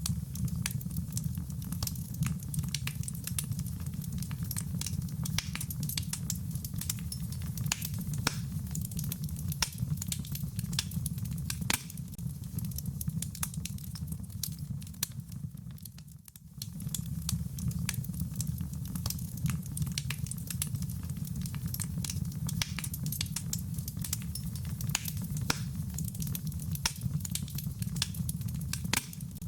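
Wood fire crackling, with dense irregular pops and snaps over a steady low rumble, mixed with falling rain. The sound dips briefly about halfway through, then carries on.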